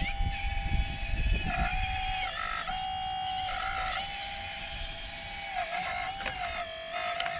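Electric hydraulic pump motor of a radio-controlled model excavator whining steadily, its pitch sagging briefly several times as the hydraulics take load.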